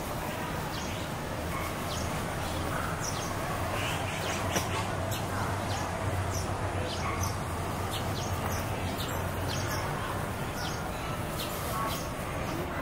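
Small birds chirping, many short high chirps scattered throughout, over a steady low background hum.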